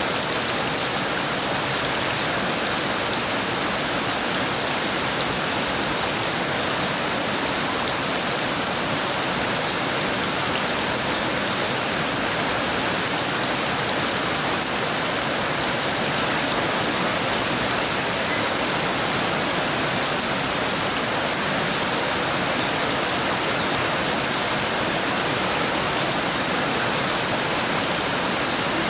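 Heavy rain falling steadily: a dense, even hiss of rain on surfaces, with no thunder and no change in strength.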